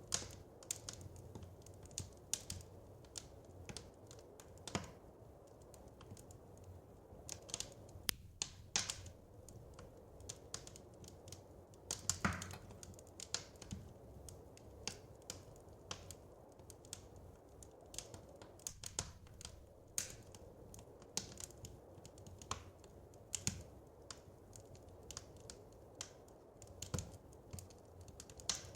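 Wood fire crackling in a fireplace: irregular sharp snaps and pops, a few louder ones, over a steady low rumble of the burning fire.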